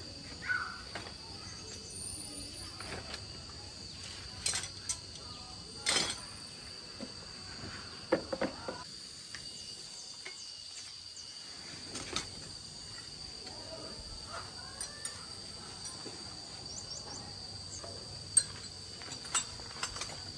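Insects droning steadily on one high note, with scattered knocks and clicks and a few short chirps.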